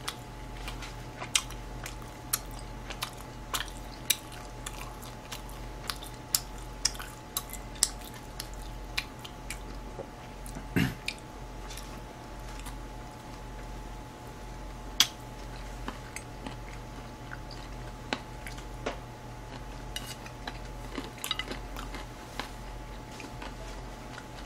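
Close-miked chewing and mouth sounds of someone eating beef and vegetables, with irregular sharp clicks as chopsticks tap the plate and sauce. A steady low electrical hum runs underneath.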